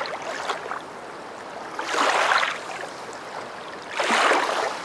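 Rushing, splashing water that swells up in surges about every two seconds.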